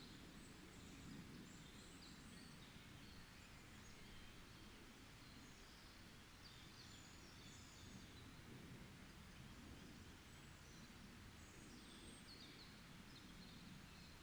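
Faint forest birdsong: scattered short, high chirps and trills from a few birds throughout, over a steady low background rumble.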